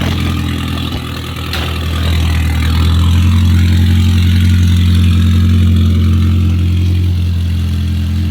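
Volkswagen 1.8 turbo four-cylinder engine idling steadily at an even pitch. There is a single sharp knock about a second and a half in, and the idle grows louder a couple of seconds in, then holds.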